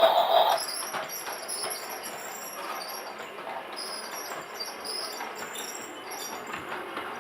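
Toy train's sound effects: a tinny tune ends about half a second in, followed by a quieter train-running sound with faint scattered clicks.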